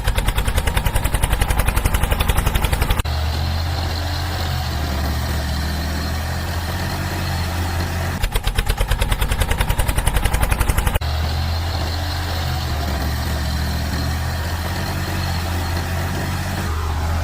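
Tractor diesel engine running steadily, with two stretches of rapid, even chugging at about seven to eight beats a second: one at the start and one about eight seconds in.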